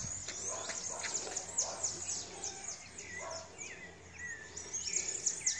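Birds chirping: a quick stream of short, high chirps that sweep downward, with a few wavering notes about halfway through.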